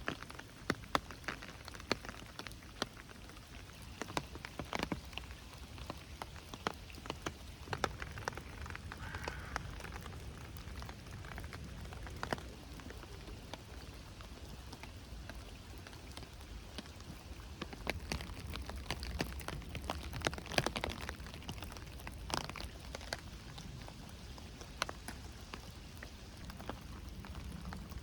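Steady rainfall, with many close drops striking in sharp, irregular taps over the soft hiss of the rain.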